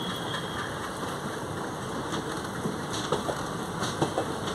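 Passenger train coaches rolling past at low speed: a steady rumble of wheels on rail, with a few sharp clicks as wheels cross rail joints.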